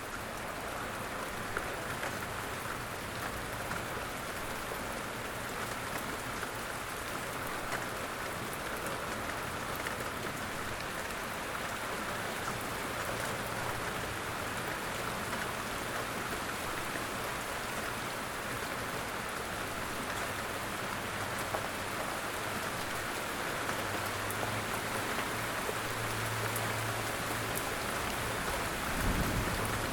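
Steady light rain falling in woods, an even patter of drops with a brief low thump near the end.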